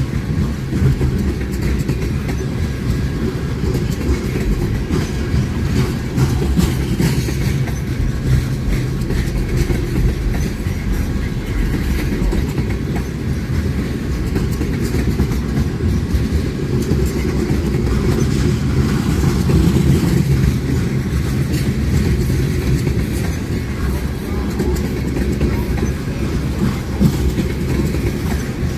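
A train rolling past: a steady rumble of wheels on the rails, with scattered clicks over the rail joints.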